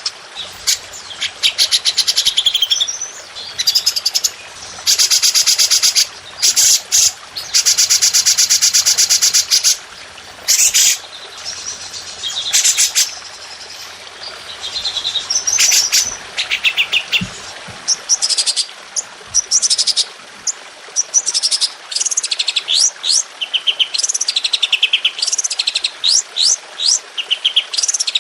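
Songbirds singing in rapid-fire 'tembakan' style: loud, high-pitched fast trills and chattering bursts of repeated notes, turning in the second half into a run of quick, sharp downward-sweeping notes.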